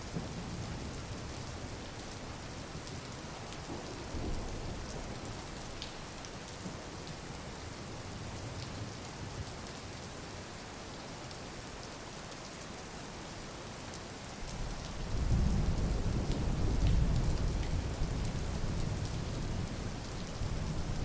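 Steady rain falling, with scattered drop ticks and a low roll of thunder that swells about three-quarters of the way through.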